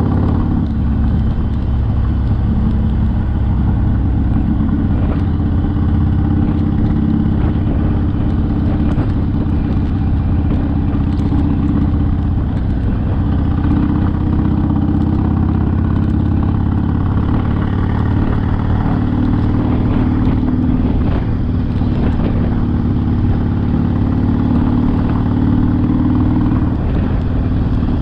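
Harley-Davidson Sportster's air-cooled V-twin engine running while riding, its note rising and falling slightly a few times with the throttle.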